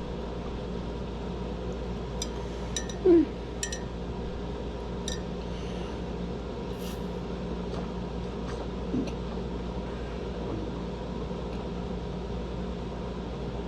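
Steady low room hum with a few light glass clinks from a soda bottle, and one brief louder sound with a falling pitch about three seconds in.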